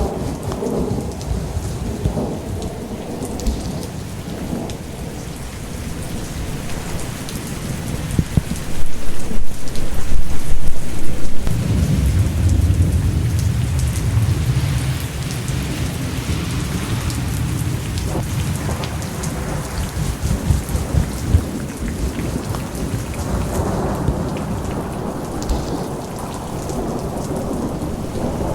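Thunderstorm ambience: steady rain falling, with a long low rumble of thunder that builds about nine seconds in and rolls on for several seconds before fading back under the rain.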